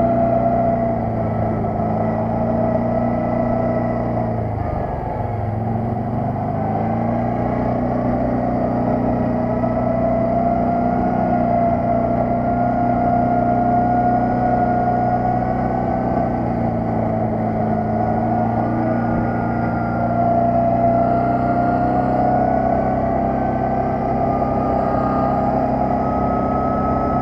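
Quad bike (ATV) engine running steadily under way, easing off briefly about five seconds in, then picking back up.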